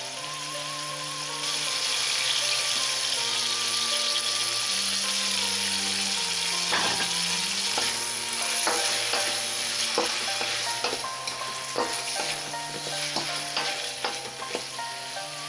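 Chicken feet sizzling in sauce in a wok, growing louder about a second and a half in. A wooden spoon stirs them, knocking and scraping against the wok through the second half.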